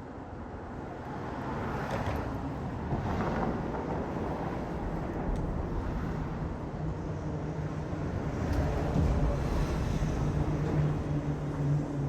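A motor's steady low hum grows louder over several seconds, over a general wash of road or harbour noise.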